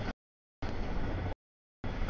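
Double-stack intermodal freight train rolling past: steady wheel-on-rail rumble and rattle. The audio comes in chunks of under a second, with dead gaps where the sound drops out completely.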